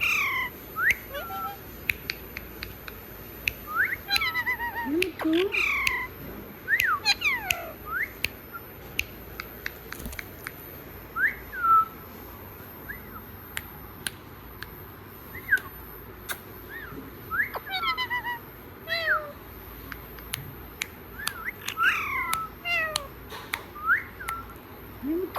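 Pet parrot calling: short whistled notes that sweep up and down in pitch, coming in bursts of several with pauses between, along with a few sharp clicks.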